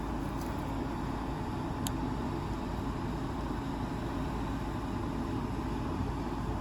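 A motor vehicle engine idling steadily, with a faint sharp click about two seconds in.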